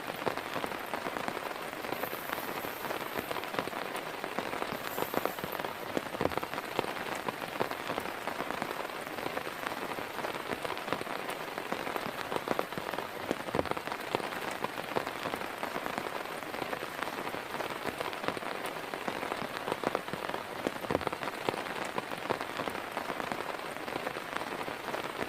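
Heavy rain falling steadily, with separate drops striking a nearby surface in sharp, irregular ticks.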